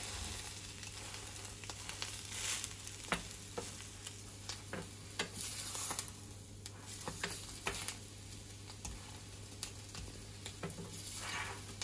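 Instant-noodle omelette sizzling in oil in a stainless steel frying pan, with a wooden spatula scraping and knocking against the pan now and then as it presses and shifts the omelette to cook it through.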